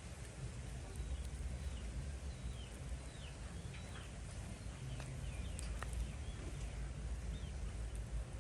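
Outdoor ambience: small birds chirp faintly and repeatedly in short falling notes over a steady low rumble, with a few sharp clicks.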